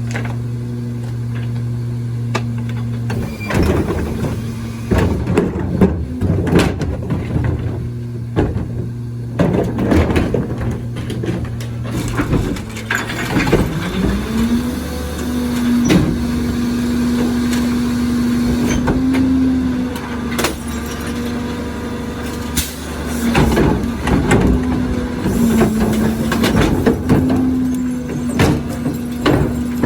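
Leach 2RIII rear-loader garbage truck on a CNG Crane Carrier chassis, its engine running steadily under repeated knocks and clatter from the rear loading work. About halfway through, the engine speed rises and holds higher.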